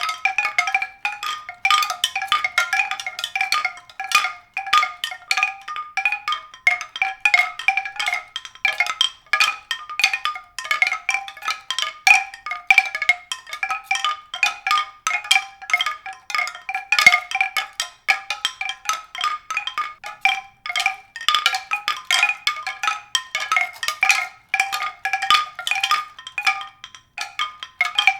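Tuned percussion struck in a continuous stream of bright, ringing notes, several a second in an uneven rhythm, with no pause.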